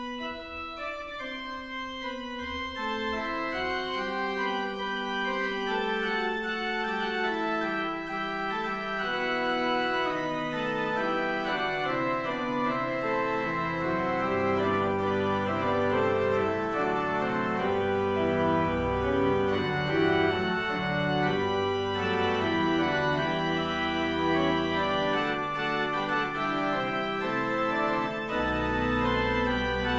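Church organ playing a postlude in sustained held chords, swelling over the first ten seconds or so, with low bass notes joining about nine seconds in.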